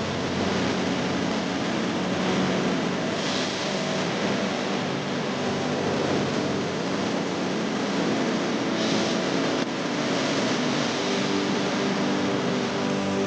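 Motor vehicle running on the road: steady engine and road noise with a faint low hum.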